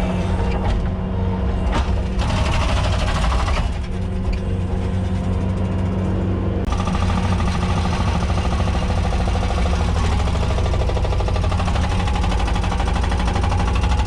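A motor vehicle's engine running steadily with a low hum. About seven seconds in, a brighter hiss joins it and holds.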